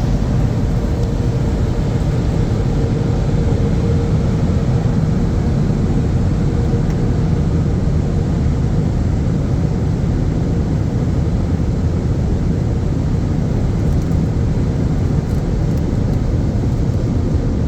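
Car wash tunnel dryer blowers running, a steady loud rush of air heard from inside the car, with a faint steady hum in the first half.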